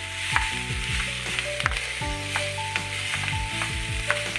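Potato chunks and onions sizzling in a nonstick frying pan while a wooden spatula stirs them, with a few sharp taps of the spatula on the pan. Soft background music plays with held notes.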